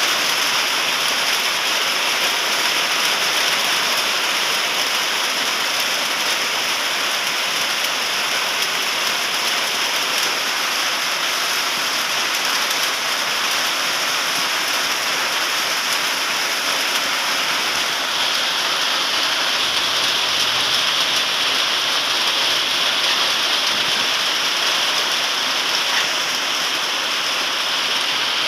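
Rain falling steadily, an even hiss of drops with no breaks.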